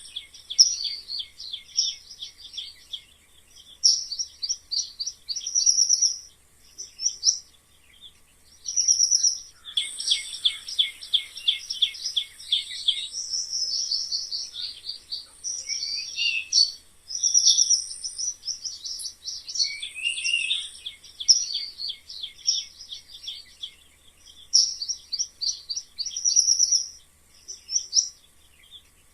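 High-pitched animal calls: rapid chirping trills and squeaks in short repeated phrases with brief pauses between them, one after another throughout.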